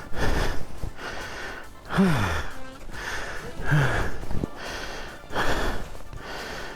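A man gasping and panting hard, with short strained groans that drop in pitch every second or two between heavy breaths.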